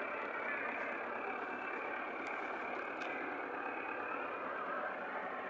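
Millat tractor's diesel engine running steadily.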